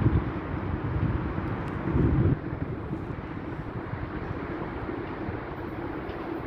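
ES2G 'Lastochka' (Siemens Desiro RUS) electric multiple unit moving through the station, a steady low rumble of its wheels on the rails. It surges louder at the start and again about two seconds in, then settles a little quieter.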